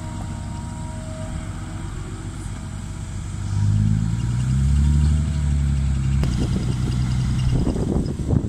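Six-wheel dump truck's diesel engine running, getting louder and rising in pitch about three and a half seconds in as it accelerates. A rattling clatter of knocks comes near the end.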